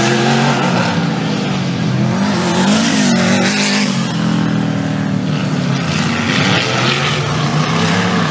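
4WD off-road race vehicle engines revving, their pitch rising and falling again and again as they are driven hard, over a steady rush of noise.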